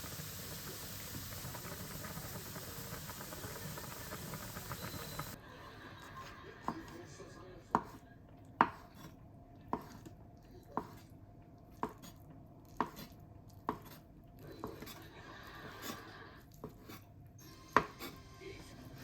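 Knife chopping on a cutting board in slow, even strokes, about one a second, a dozen in all. The first five seconds before the chopping hold only a steady hiss.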